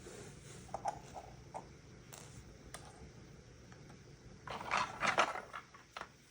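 Lego pieces being handled: a few light plastic clicks, then about a second of louder rattling and rustling a little past the middle.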